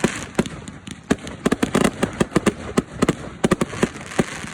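Fireworks going off: a rapid, irregular run of sharp bangs and crackles over a steady hiss.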